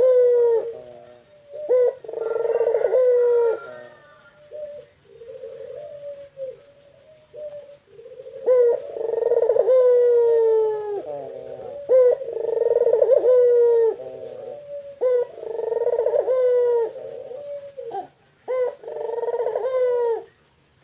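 Local ringneck dove (puter) cooing in a series of deep, drawn-out phrases, each a second or two long, repeated about every three seconds and often sliding down in pitch at the end. Softer cooing comes in the middle. The voice is very big and resonant, the trait this bird is kept for.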